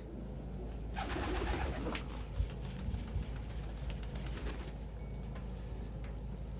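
Domestic pigeons cooing in a loft, with a louder stretch about a second in and a few short, high chirps over a low steady hum.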